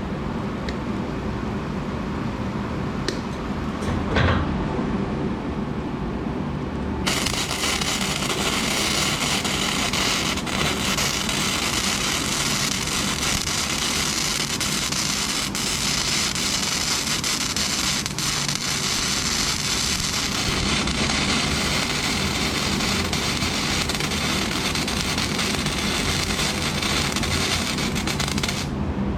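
Lincoln Weld-Pak 90 flux-core wire-feed welder: a steady hum at first, then about seven seconds in the arc strikes and crackles evenly for about twenty seconds, cutting off sharply near the end.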